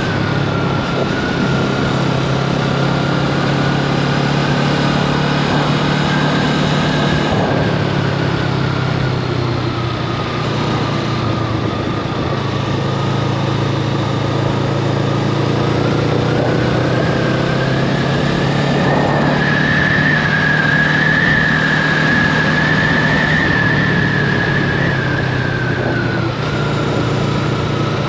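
Honda Rebel 500's parallel-twin engine running as the motorcycle rides along at a steady pace, its pitch easing off about seven seconds in and rising again in the second half.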